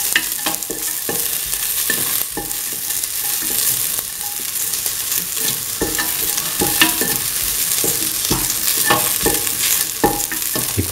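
Chopped onions and shallots frying in oil in a stainless steel pan, sizzling steadily, while a stirring utensil scrapes and knocks against the pan at irregular intervals.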